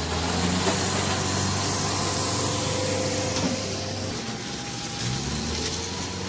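Heavy machine's engine running steadily under a hiss, easing off about four seconds in and then rising in pitch again about five seconds in.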